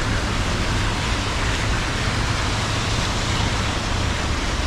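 Steady wash of rain and traffic on wet city streets, an even hiss over a low rumble.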